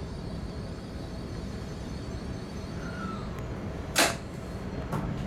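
Steady low rumble of an N700 series Shinkansen, heard from inside the car as it runs into a station. A single brief, sharp burst of noise comes about four seconds in, and a softer one about a second later.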